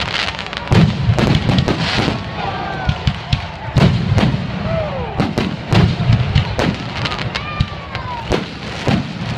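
Aerial fireworks shells bursting overhead in quick, irregular succession. Several sharp bangs and crackles come each second over deep thumps, and a few short falling whistles sound between them.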